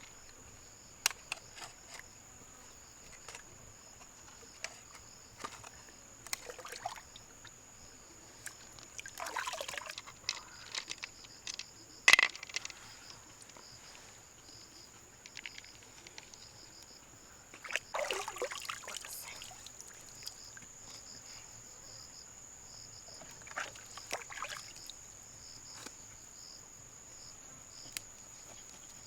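Water splashing and trickling in a few short bursts, with scattered sharp clicks and knocks; the loudest click comes about twelve seconds in. A steady high insect buzz runs underneath.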